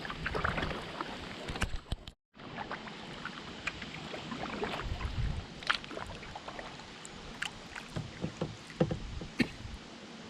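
Kayak paddling on a river: paddle blades dipping and splashing, with small knocks and drips over a steady hiss of moving water and wind. The sound cuts out briefly about two seconds in.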